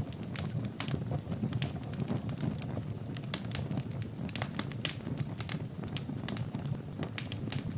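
Wood fire burning in a fireplace, crackling with frequent irregular sharp pops and snaps over a steady low rumble of flames.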